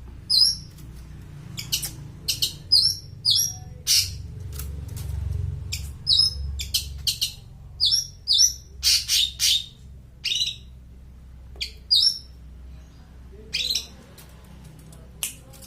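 Long-tailed shrike (cendet) giving short calls over and over at irregular intervals, some with a quick upward flick in pitch.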